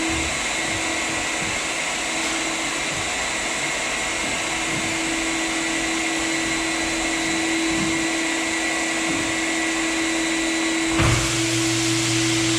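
Floor buffer with a sanding screen running steadily over a hardwood floor, screening the finish before the final coats: a constant motor hum with a high whine over it. About eleven seconds in there is a knock and the running sound shifts to a lower hum.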